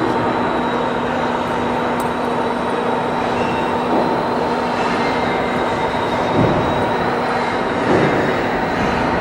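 Steady machinery noise with a constant low hum and a thin high whine; a couple of soft swells come in near the end.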